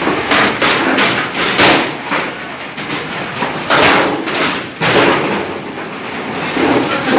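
Irregular thumps and clattering knocks aboard a squid-jigging boat, coming unevenly about once or twice a second.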